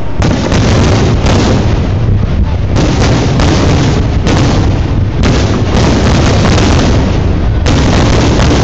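Fireworks display: aerial shells bursting overhead in a rapid, loud run of booms, about one or two a second, over a continuous low rumble.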